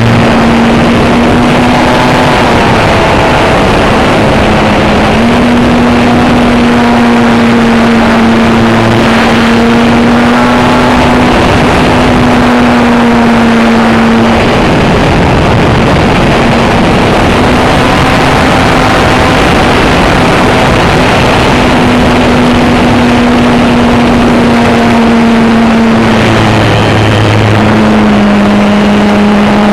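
Engine of a radio-controlled model airplane in flight, a steady drone whose pitch steps down and back up several times, under loud, constant wind noise on the microphone.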